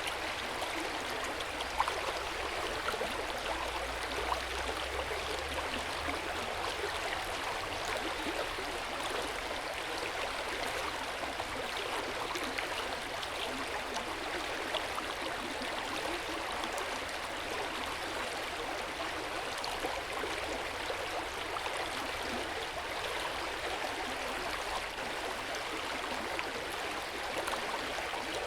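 Hot-spring water running steadily in an outdoor bath, with a couple of brief louder moments about two and four seconds in.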